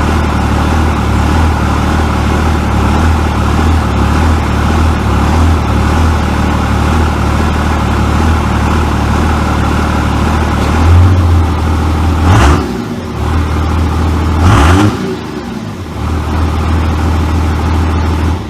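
24-valve Cummins 5.9 L inline-six diesel idling in gear with 84 mm injection lines, running with a mild lope, a slight jiggle in the idle. Two short clunks come about 12 and 15 seconds in, and the sound cuts off at the very end.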